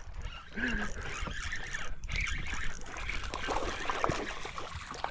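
Open-boat ambience: a steady low rumble of wind and water around a small fishing boat, with a few light knocks and clicks from handling on deck.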